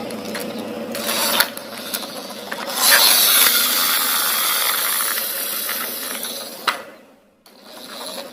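Plastic toy vehicle being handled, with mechanical rattling and ratchet-like clicking. It grows louder about three seconds in and fades away near the end.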